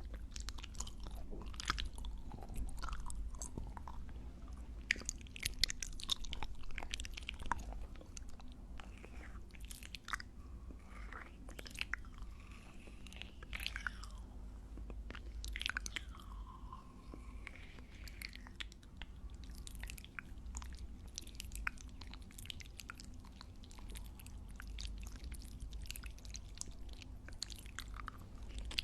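Close-miked ASMR chewing and biting: a steady run of wet, crisp mouth clicks and pops, with a few squelching slides of the tongue and lips about halfway through.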